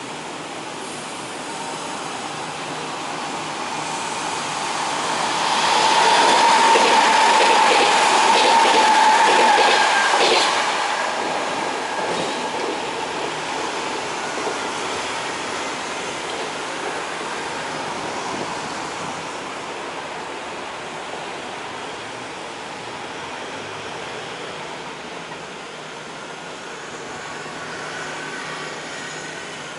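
Kintetsu 6020-series electric train pulling out and moving away. Its running noise builds to a peak about six to ten seconds in, with a steady whine and the clatter of wheels over rail joints, then slowly fades as it recedes.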